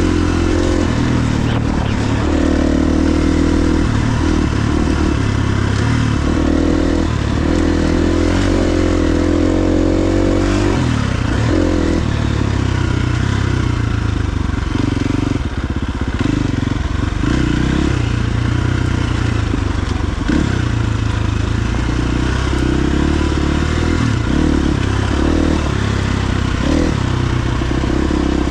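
KTM 350 XC-F dirt bike's single-cylinder four-stroke engine running under way, its revs rising and falling repeatedly with the throttle and gear changes, with some clattering over rough ground.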